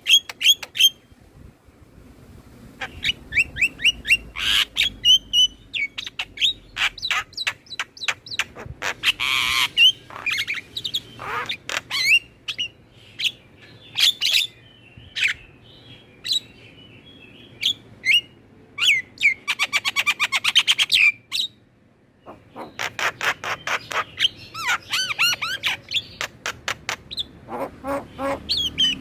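Javan mynas and other starlings singing and chattering: runs of rapid, sharp notes and whistles in phrases broken by short pauses.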